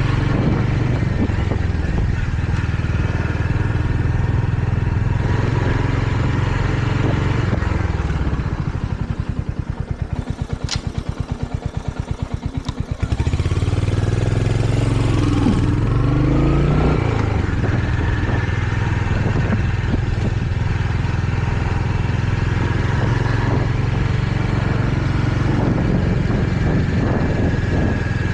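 Royal Enfield Hunter 350's single-cylinder engine running as the bike rides along. About eight seconds in it drops off the throttle to a slow, distinct beat of separate firing pulses for some five seconds, then picks up again, rising in pitch.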